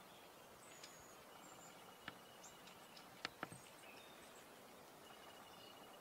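Faint, high, thin calls of long-tailed tits and a faint steady trill against quiet outdoor background. A few sharp clicks stand out as the loudest sounds: one about two seconds in, then two in quick succession just after three seconds.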